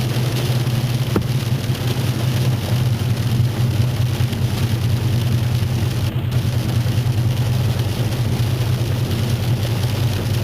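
Steady low hum of a car heard from inside the cabin, under a dense, even hiss of heavy rain and hail falling on the car.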